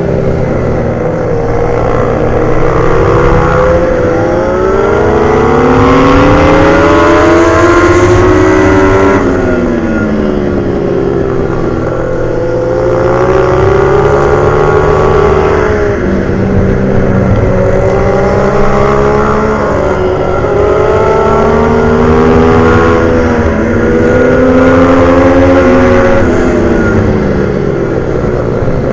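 Pit bike's single-cylinder engine at racing speed, revving hard up through the gears and then dropping away as it slows for corners, several times over.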